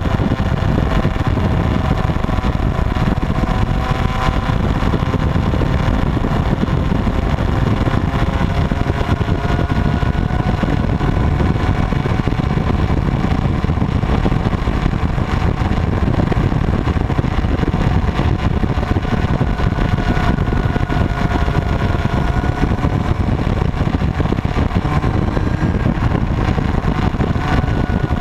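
Motorcycle engines running steadily at speed: several held engine tones drift slowly up and down in pitch over a dense low rumble.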